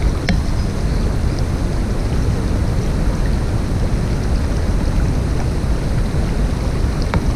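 Steady rushing of a mountain stream's water, a dense low rumble with a few faint ticks about a third of a second in and near the end.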